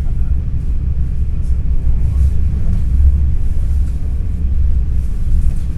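Steady low rumble of an NS ICNG electric intercity train in motion, heard from inside the passenger cabin.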